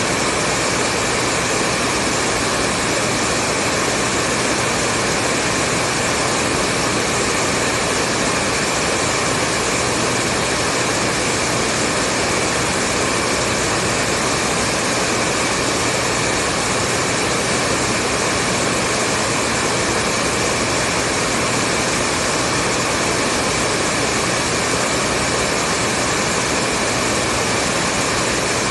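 Hair dryer running steadily, a constant even whooshing rush of air with a faint motor hum, used as continuous white noise.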